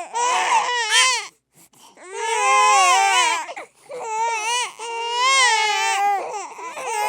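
Baby crying hard: loud, high-pitched wavering wails, with a short break for breath about a second and a half in before the wailing resumes.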